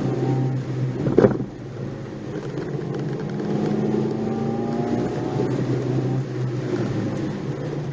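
Nissan March 12SR's 1.2-litre four-cylinder engine heard from inside the car while driving. A brief loud knock comes about a second in, then the revs rise for a couple of seconds and drop off around five seconds in.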